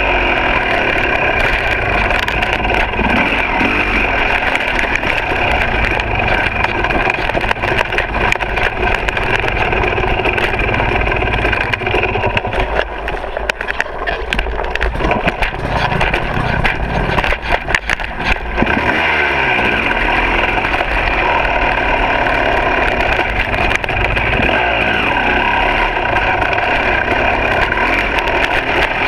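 Two-stroke dirt bike engine running along a trail under changing throttle. About halfway through it eases off for several seconds, with knocks and rattles from the bike, then pulls steadily again.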